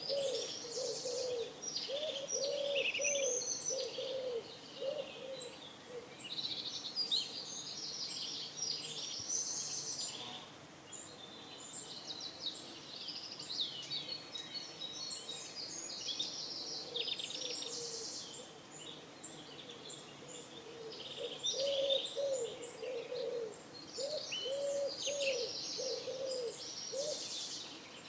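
Pigeons cooing in runs of low, repeated notes near the start and again through the second half, over continuous high chirping of small songbirds.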